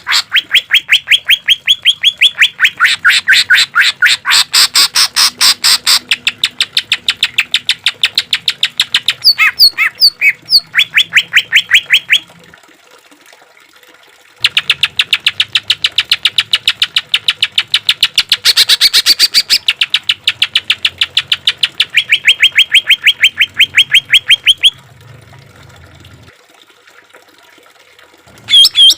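Green leafbird (cucak ijo) singing in long runs of rapid repeated chip notes, about ten a second, the fast 'tembakan' bursts kept birds are trained on. The song breaks off twice for a couple of seconds, about twelve seconds in and again near the end.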